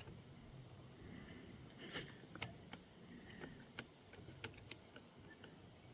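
Faint, scattered small clicks and taps from hand work on an RC car's engine and gear mount, about a dozen irregular ticks over several seconds.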